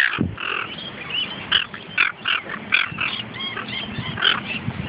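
Seagulls calling, a run of short repeated calls several times a second, some louder ones standing out.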